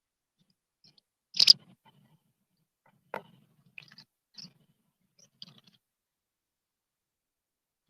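Wild birds at a garden stone water basin making a handful of short, sharp sounds: the loudest about a second and a half in, then several smaller ones between about three and six seconds in.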